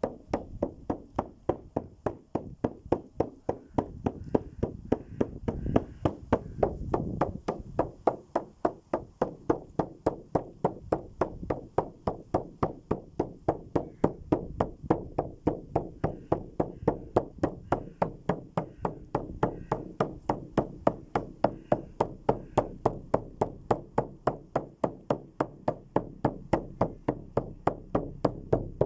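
Steady, even knocking, several beats a second, like a wood block or a drum kept at a constant tempo.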